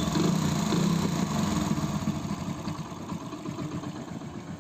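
Hero Passion Pro motorcycle's single-cylinder four-stroke engine idling, a little louder in the first second or two and then settling lower. After a new timing chain, tensioner pad and roller, it runs "bilkul makkhan" (butter-smooth), with no timing-chain rattle.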